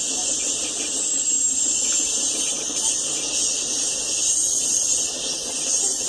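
Freight train cars rolling past: a steady high hiss of steel wheels on the rails, with a thin squeal in it.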